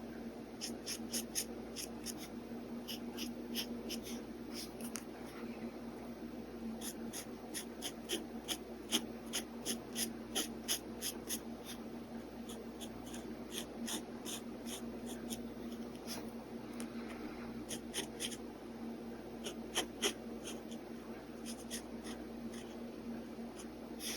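Pen nib scratching across paper in short, quick sketching strokes, in clusters with brief pauses between them.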